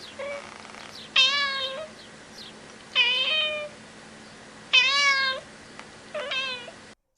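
Domestic cat meowing repeatedly: four loud, drawn-out meows about every one and a half to two seconds, with fainter mews between them.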